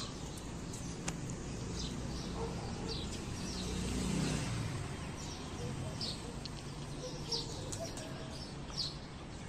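Small birds chirping now and then in short, high notes over a faint, steady low hum of distant traffic.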